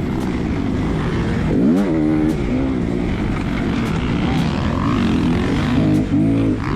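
Dirt bike engine revving up and down repeatedly as it is ridden around a motocross track, the pitch rising and dropping about once a second.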